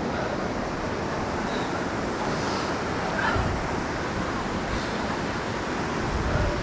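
Steady rush of whitewater from the Youghiogheny River's rapids pouring around boulders, with wind buffeting the microphone a couple of times.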